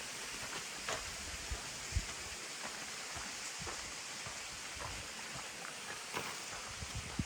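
Running water of a stream, a steady rushing hiss, with scattered light ticks and taps over it.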